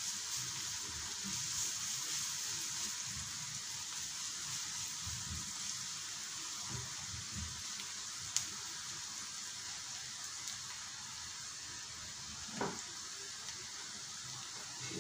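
Chopped onion and grated carrot sizzling in hot oil in a frying pan, a steady hiss. A spatula stirs it through the first half, and there are a couple of light clicks and knocks later on.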